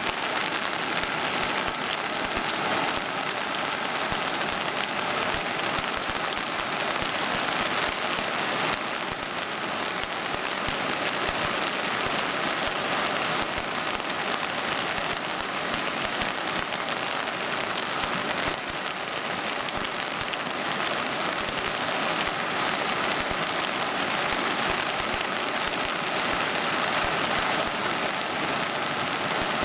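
Steady hiss of water, even and unbroken, like heavy rain or rushing floodwater.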